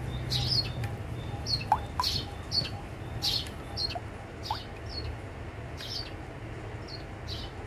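Small birds chirping repeatedly in short high calls, about one to two a second, over a low steady hum.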